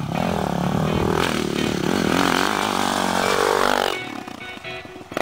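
Motocross bike engine revving, its pitch rising and falling, over background music. The engine sound drops away suddenly about four seconds in, leaving the music.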